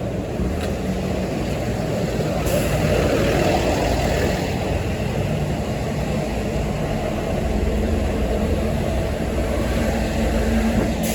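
School bus engine running with a steady drone and low hum, heard from inside the bus, swelling slightly a couple of seconds in.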